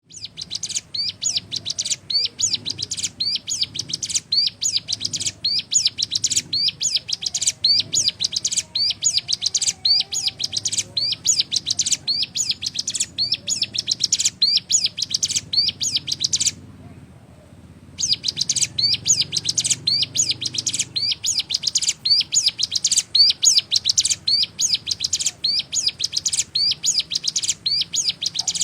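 Ciblek gunung songbird calling a rapid, steady series of sharp high chirps, repeated evenly with a short pause about two-thirds of the way through.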